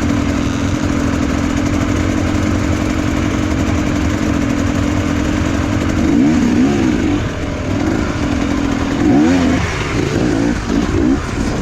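Enduro motorcycle engines idling with a steady note, then being revved up and down repeatedly from about six seconds in.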